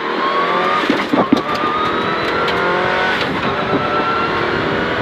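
Subaru Impreza rally car's turbocharged flat-four boxer engine pulling hard under acceleration, heard from inside the cabin, its pitch rising slowly. A few sharp knocks come about a second in.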